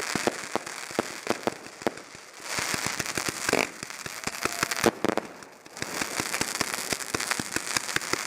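Consumer fireworks going off several at a time: a dense run of sharp pops and bangs over a crackling hiss, easing off briefly a few times.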